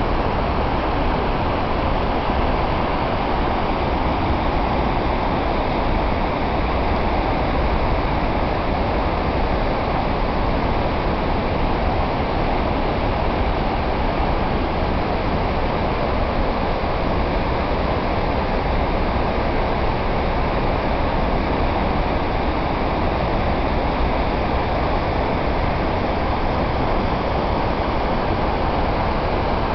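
Waterfall: a loud, steady, even rush of falling water, without change.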